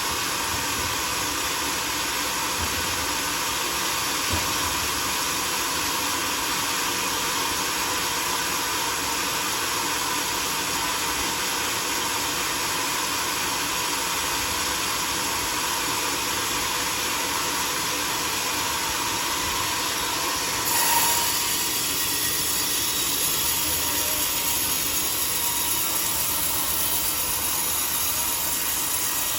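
A sawmill saw running steadily, a constant hiss with a thin whine. About two-thirds of the way through the sound turns brighter and harsher.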